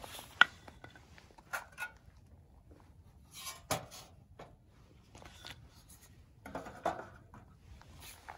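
Scattered light clicks, taps and brief scrapes of small objects being handled, with the sharpest click about half a second in.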